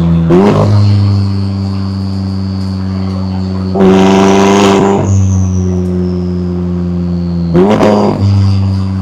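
McLaren 570S twin-turbo V8 exhaust, revved in three short blips, the longest and loudest about four seconds in, settling back to a steady note between them. A faint high whine runs alongside.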